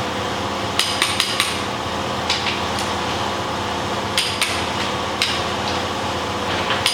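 Sharp metallic clicks and clinks of hand tools on an engine block, about ten of them, several in quick pairs, over a steady low hum.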